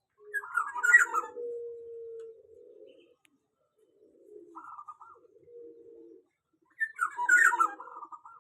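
Black-naped oriole calling: two loud bursts of jumbled, harsh-and-whistled notes, one near the start and one near the end, with quieter low, drawn-out notes in between.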